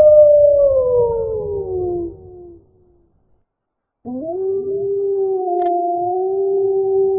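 Wolf howling: one long howl slides down in pitch and fades out about two seconds in. After a short silence, a second howl rises and then holds a steady pitch.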